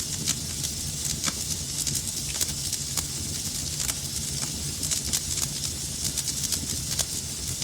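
Wood fire burning in a fireplace, with frequent irregular crackles and pops over a steady low rumble and hiss of the flames.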